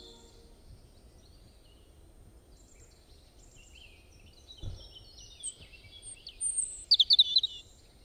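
Small birds chirping and twittering, sparse at first and busier in the second half, with a cluster of sharp chirps near the end. A single soft low thump comes about four and a half seconds in.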